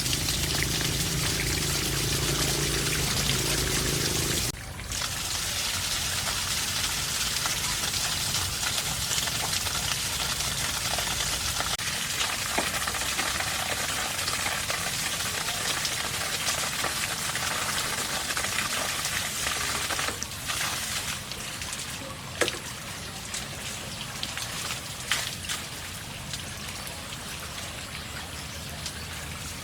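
Water running and trickling in a steady splash. About four and a half seconds in the low rumble under it stops abruptly, and near the end it thins out with scattered drips.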